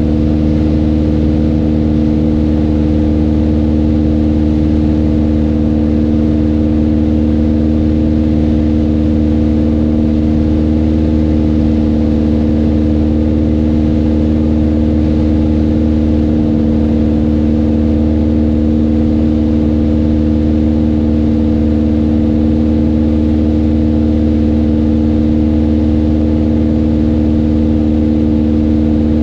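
Mooney M20J's four-cylinder Lycoming engine and propeller droning steadily, heard from inside the cockpit, with no change in pitch.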